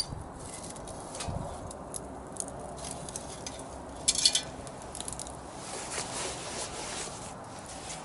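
Wood fire crackling with scattered sharp pops, and a quick run of louder snaps about four seconds in.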